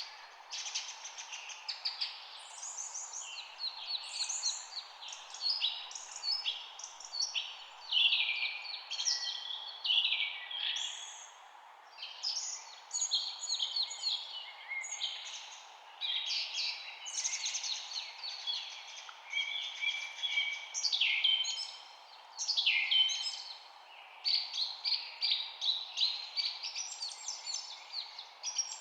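Many songbirds chirping and singing at once, a dense overlapping chorus of quick high chirps and trills with no break, over a steady background hiss.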